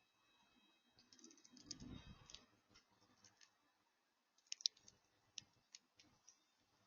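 Faint, scattered clicks and taps of an animal feeding at a sunflower-seed feeder, with a soft low thump about two seconds in.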